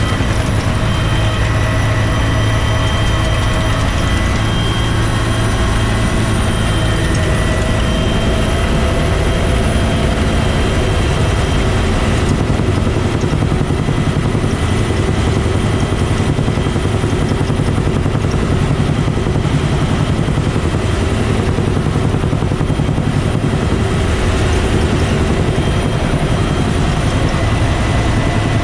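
Bell UH-1 Huey helicopter running steadily, its two-blade main rotor and engine making a loud, unbroken noise with a strong low hum and a few steady higher whines.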